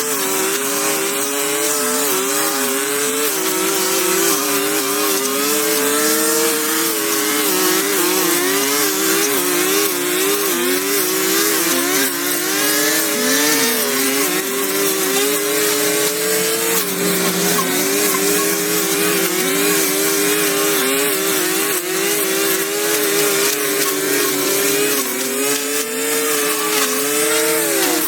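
Small petrol engine of a handheld power tool running at high revs without a break, its pitch wavering and dipping briefly now and then as it takes load.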